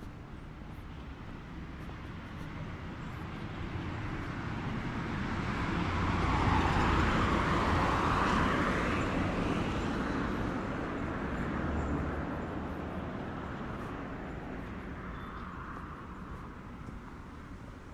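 A car drives past on the street. Tyre and engine noise swells to its loudest before the middle, rises again briefly after it, and then fades away.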